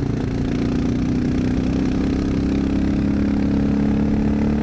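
Honda XR650L's carbureted single-cylinder four-stroke engine running under way, its pitch sagging a little over the first couple of seconds, then holding and rising slightly near the end.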